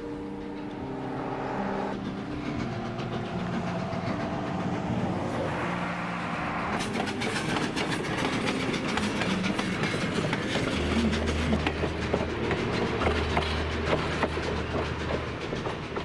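Steam locomotive running, with a dense rattling clatter of rapid clicks that builds from about halfway through. Music with held notes plays under it in the first half and then fades.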